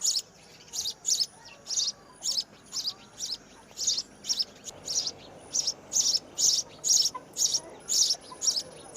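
A bird giving a steady series of short, high-pitched chirps, about two to three a second, growing a little louder and quicker after the middle.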